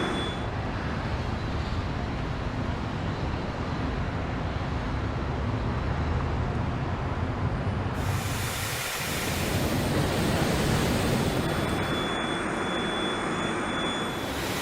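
A steady rushing roar that changes character abruptly about eight seconds in, becoming brighter.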